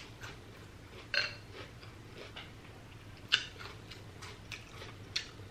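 Close-miked chewing of a shrimp summer roll: a few soft, wet mouth clicks and smacks, the sharpest about three seconds in.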